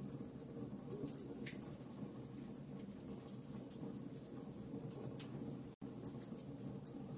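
Wood fire of burning logs crackling, with frequent small sharp pops and snaps over a steady low rumble of the flames. The sound cuts out completely for an instant nearly six seconds in.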